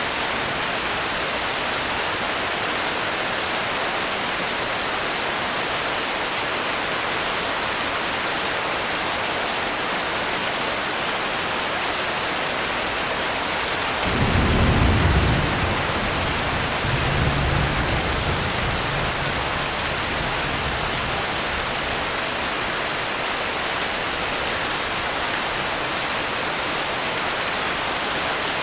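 Steady rain falling. About halfway through, a low rumble of thunder rolls in, swells twice and dies away over about six seconds.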